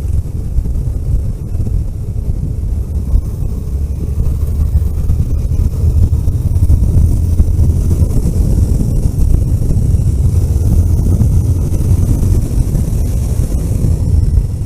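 Vehicle travelling along a road: a steady low engine and road rumble with wind noise, the hiss growing a little stronger in the second half.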